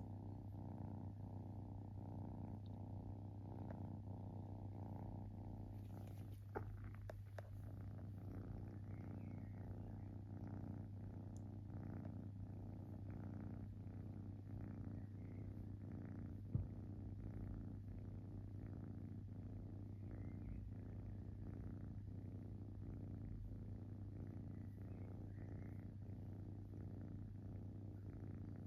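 Kitten purring steadily close to the microphone, a continuous low pulsing rumble, with a brief sharp tick about halfway through.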